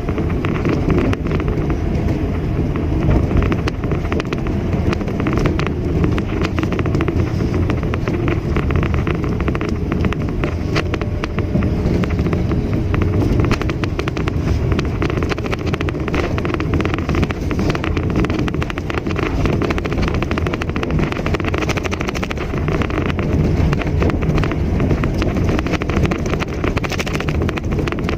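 Mitsubishi Mirage hatchback being driven: steady engine and road noise, heaviest in the low range, without let-up.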